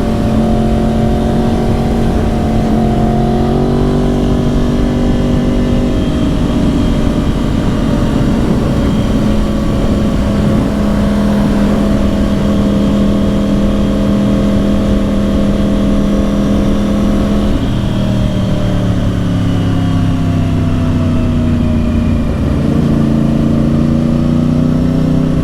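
2010 Yamaha R1's crossplane inline-four with dual Yoshimura exhausts running under way at fairly steady revs. The pitch drops sharply about two-thirds of the way through, then climbs slowly again.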